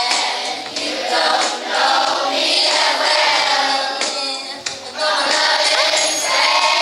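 A group of children singing together over backing music.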